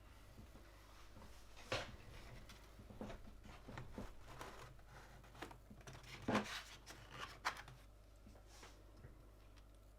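Hands fitting parts onto a Gamakay LK67 mechanical keyboard: scattered light plastic clicks and knocks with some rustling. The sharpest clicks come about two seconds in and twice more between six and seven and a half seconds.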